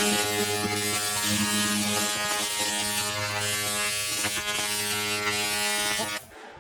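Fiber laser cleaning head firing on a surface: a steady electric buzz with a crackling hiss, the hum swelling and easing every second or so, then cutting off near the end.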